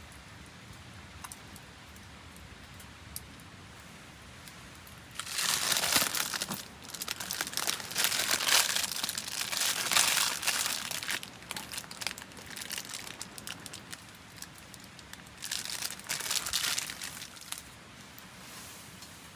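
Crinkly material being handled and crumpled, in a long spell starting about five seconds in and a shorter one near the end.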